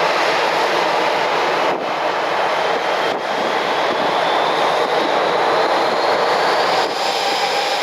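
Jet airliner engines running: a steady, loud rushing noise with a faint high whine that rises slowly.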